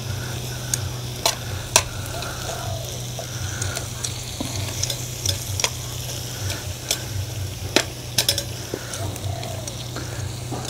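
Vegetables in oil and garlic butter sizzling and frying in a metal tray over a charcoal fire, with steaks sizzling on the grill beside them. Metal tongs scrape and click against the tray a dozen or so times as the vegetables are spread out.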